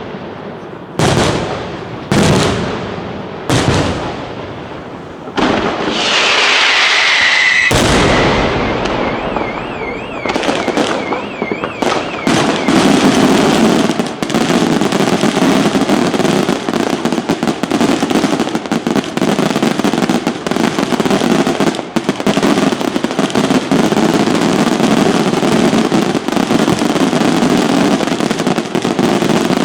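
Fireworks display: a few separate aerial shell bursts, each booming and fading, then a falling whistle and a warbling whistling tone. About twelve seconds in it builds into a dense, continuous barrage of bangs and crackling, the finale.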